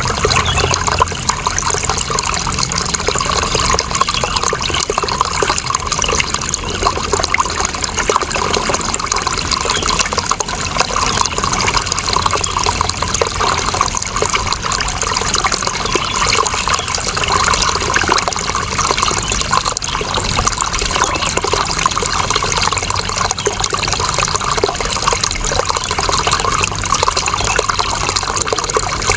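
Running water flowing and trickling steadily, a continuous even rush with no breaks.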